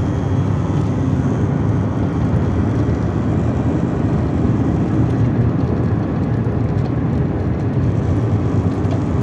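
Steady engine and road noise inside the cabin of a Chevrolet Corsa Classic driving at speed.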